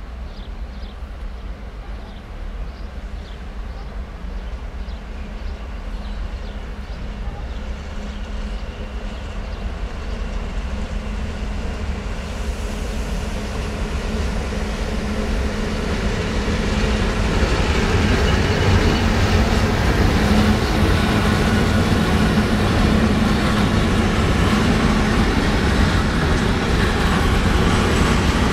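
Freight train wagons rolling slowly past over poor track held to 30 km/h: a steady rumble of wheels on rail that grows louder about halfway through as the tank wagons come by, then holds steady.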